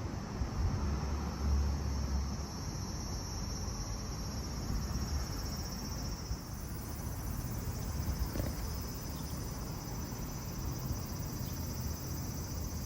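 Insects chirring steadily in a high, even drone, over a low rumble of wind on the microphone.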